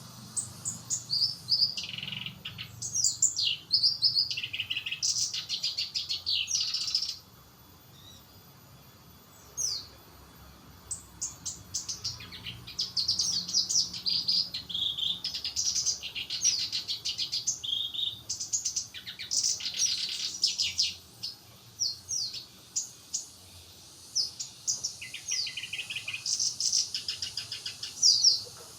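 Black-browed reed warbler singing: fast, busy runs of high, quickly repeated notes in phrases of a few seconds. A gap of a few seconds comes about seven seconds in, broken by one short note, before the song resumes.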